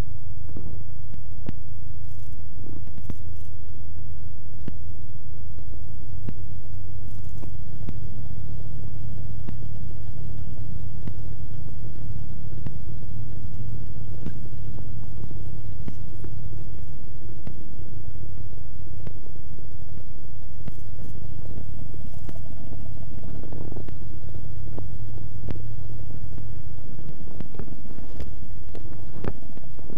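Cessna 172's piston engine running steadily at low taxi power, a loud, even drone heard from inside the cabin.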